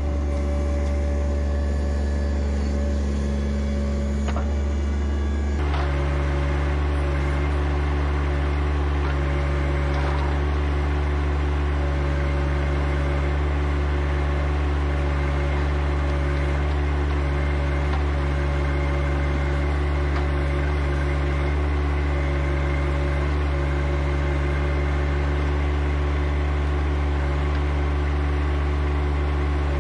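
Compact tractor's three-cylinder diesel engine running steadily under the backhoe work, a deep drone; its note changes about six seconds in, then holds.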